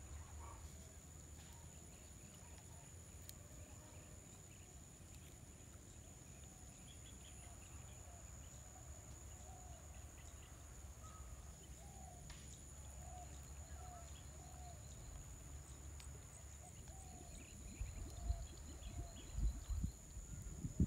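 Quiet outdoor ambience: a series of faint short bird calls through the middle over a steady high-pitched whine, with low rumbles and thumps building near the end.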